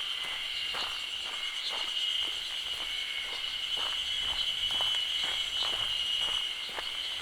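Footsteps at a steady walking pace, about two steps a second, under a steady high-pitched drone of insects singing in the forest.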